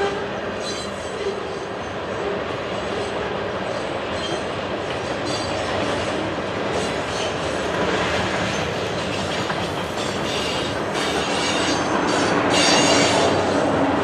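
Freight train of tank cars rolling past: a steady roar of steel wheels on rail with some clatter, growing somewhat louder near the end.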